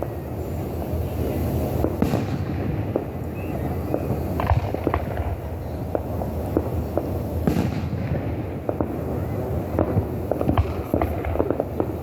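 Fireworks going off in quick succession: sharp bangs and crackles over a continuous low rumble of booms. The loudest bangs come about two, four and a half, and seven and a half seconds in.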